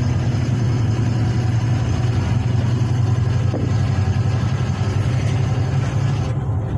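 Goods lorry's diesel engine and road noise while driving: a steady low drone with a hiss above it that thins a little near the end.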